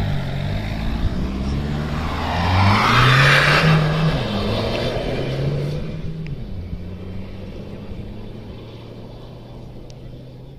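Dacia Duster rally car's engine accelerating hard, its pitch climbing and dropping through several gear changes. It is loudest about three seconds in, then fades steadily as the car drives away.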